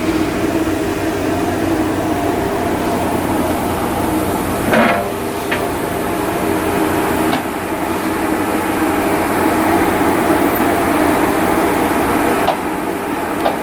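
Steady drone of shipyard machinery with a few sharp knocks. A short, loud swell of noise comes about five seconds in.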